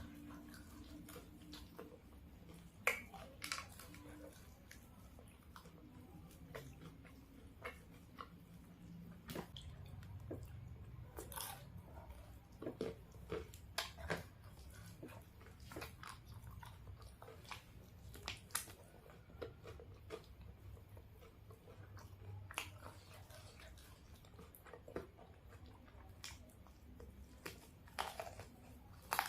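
Close-miked chewing and biting of fried chicken, with crunches and mouth clicks at irregular intervals.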